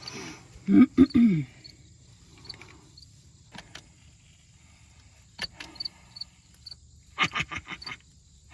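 Hand grease gun being worked on a tractor's grease fitting: a few loud squeaky strokes about a second in, then a quick run of sharp clicks near the end. Insects chirp faintly and steadily behind it.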